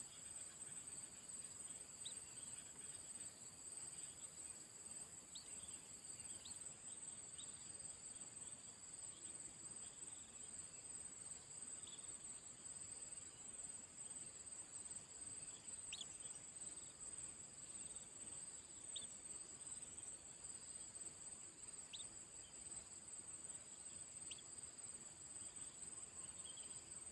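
Faint, steady high-pitched chorus of insects such as crickets, trilling continuously; a second, higher insect tone stops about six seconds in. Brief faint chirps sound every few seconds.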